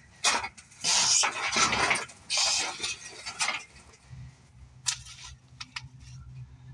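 Metal clattering and scraping as a motorcycle shipping crate is handled, loudest in the first few seconds, then a few sharp clinks. A steady low hum comes in about four seconds in.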